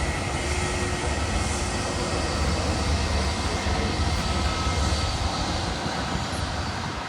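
Jet airliner engines at takeoff thrust on a departure: a steady, loud rumble with a faint high whine, easing slightly near the end.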